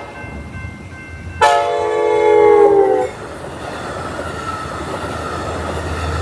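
Train horn sounding one long blast of about a second and a half, its pitch sagging slightly toward the end. It cuts off, and the rising rush and rumble of the train passing over the level crossing follows.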